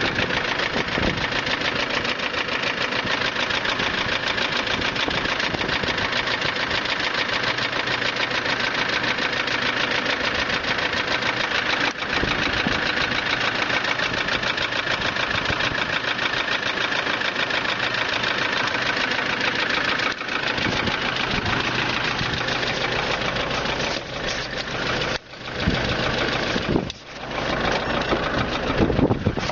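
Toyota 1KD-FTV 3.0-litre four-cylinder turbodiesel idling with a fast, even knock. Near the end the sound dips and turns uneven.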